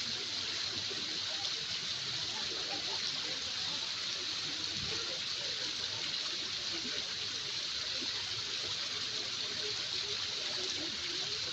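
Waterfall: a steady, even rush of falling water that neither starts nor stops, with faint voices underneath.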